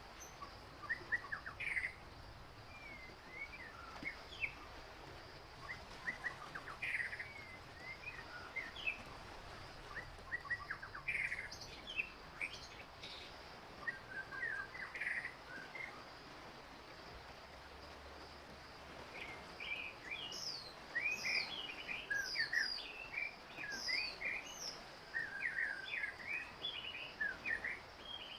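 Several birds chirping in quick, short calls that come in clusters, busiest near the end, over a faint steady high-pitched tone.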